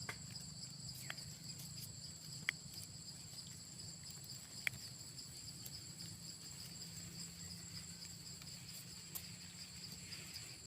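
Steady high-pitched chorus of insects trilling, with two sharp clicks about a second apart early on.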